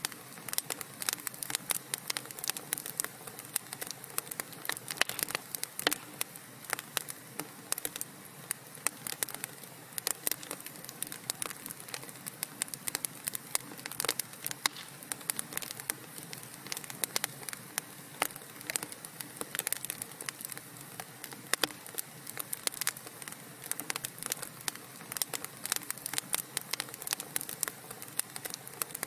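Wood fire in a fireplace crackling, with many sharp pops and snaps at irregular moments over a soft steady hiss.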